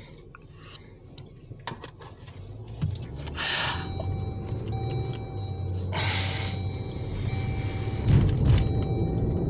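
Car engine and road rumble heard from inside the cabin, growing louder as the car picks up speed. A faint set of high steady tones comes and goes in the second half, with two short hisses.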